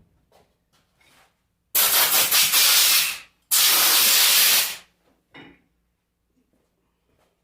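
Varnish being sprayed onto an alternator part in two hissing bursts, each about a second and a half long, with a short break between them.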